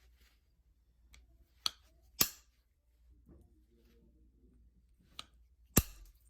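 Sharp clicks of flakes snapping off a novaculite preform as it is knapped: four crisp snaps, the second and fourth loudest, with soft handling between them.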